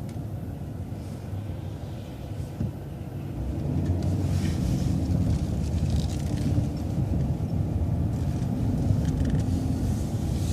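City transit bus running, a steady low engine and road rumble that gets louder about three and a half seconds in.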